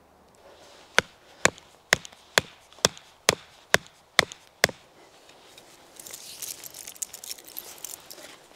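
A carved wooden tether peg being hammered into the ground: nine sharp wooden knocks, about two a second, followed by rustling.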